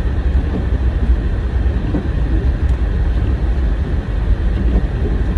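Car driving: a steady, deep rumble of engine and tyre noise.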